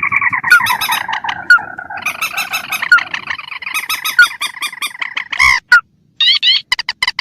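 A lure recording of rail-family swamp birds calling: mandar (swamphen) and tikusan crake calls. They make continuous pitched, honking calls laced with sharp clicking notes, break off briefly about six seconds in, then resume as quick repeated notes.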